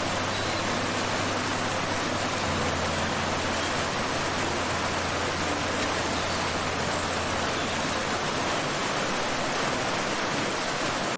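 Steady, loud rushing noise of the water or rain kind, with a low hum under it, cutting off abruptly at the end.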